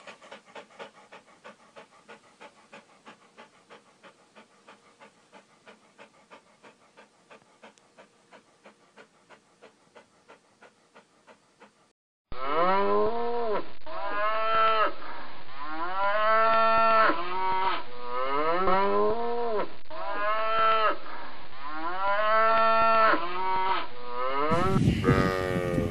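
A German shepherd panting, faint and even at about three breaths a second. After a brief cut, cattle moo loudly over and over, each call rising and then falling in pitch. A rough low rumble comes in near the end.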